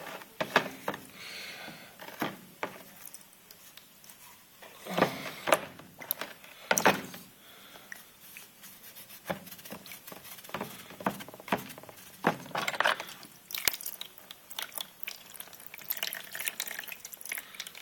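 Rusty 1911 pistol being put into a container of penetrating oil: liquid splashing and dripping, with scattered clicks and knocks of metal parts and container.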